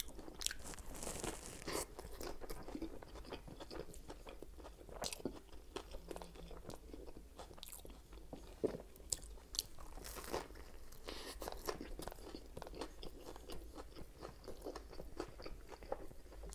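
Close-miked chewing of a toasted sub sandwich: irregular crisp crunches and small wet clicks as the toasted bread and fillings are bitten and chewed, with a fresh bite near the end.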